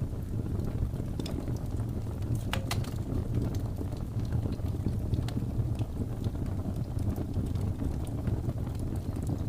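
Wood fire crackling in a fireplace, with scattered sharp pops over a steady low rumble of blizzard wind; one louder pop comes about two and a half seconds in.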